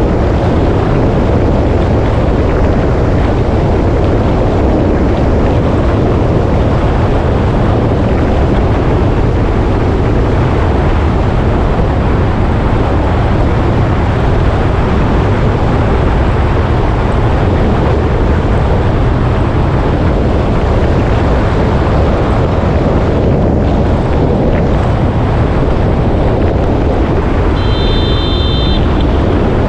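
Motorcycle running at a steady cruise, with wind buffeting the microphone. A brief high tone sounds for about a second near the end.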